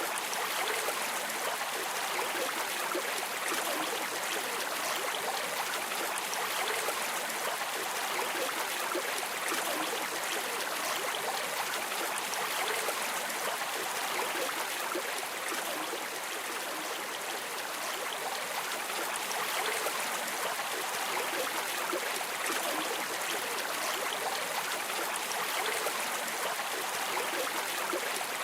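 River water flowing steadily over rocks, an even rushing and trickling with no change in level.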